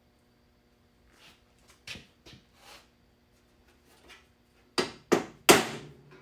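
A hammer striking a center punch three times in quick succession, the last blow the loudest and ringing briefly, marking hole centers for drilling. Before the blows there are a few faint clicks of parts being handled.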